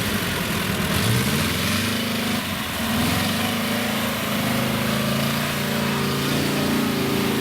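Engine of a Zaporozhets-based off-road vehicle running under load, its pitch rising and falling as it is worked through an obstacle.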